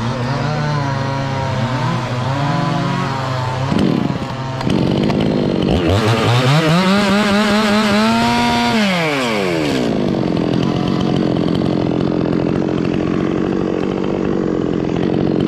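Two-stroke chainsaw revving to full throttle about five seconds in and holding there for roughly four seconds while cutting wood, then dropping back to a steady idle.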